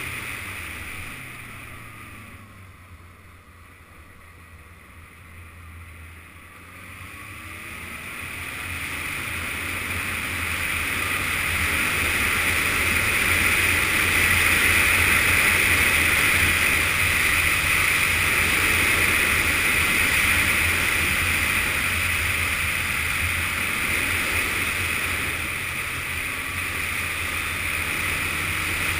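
Yamaha FZS600 Fazer motorcycle riding along: wind rushing over the camera microphone over the steady hum of its inline-four engine. The noise dies down a few seconds in, then builds back up and stays loud.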